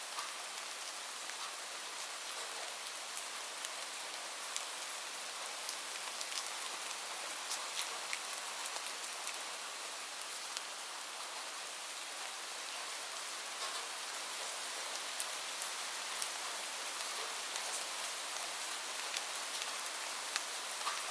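Steady rain falling, an even hiss sprinkled with the sharp ticks of individual drops hitting a surface.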